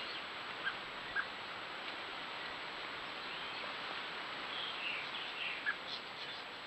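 Small birds chirping now and then over a steady background hiss, with a few short sharp notes about a second in and a cluster of chirps near the end.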